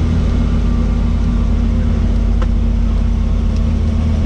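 Helicopter engine and rotor running, a loud, steady, deep drone.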